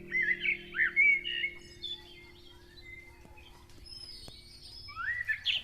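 Garden birds chirping in short, quick calls that bend up and down in pitch, a cluster at the start and another near the end, over a held music chord that fades out.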